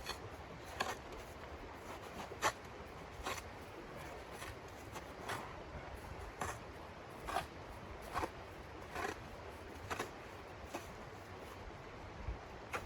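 Footsteps crunching in snow at a slow walking pace, about one step a second.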